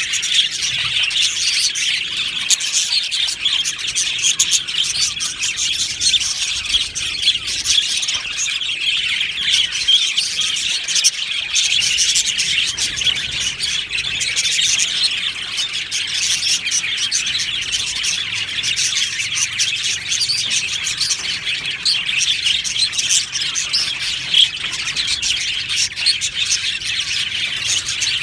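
A flock of budgerigars chattering, many birds chirping and warbling at once in a dense, continuous high-pitched chorus with occasional squawks.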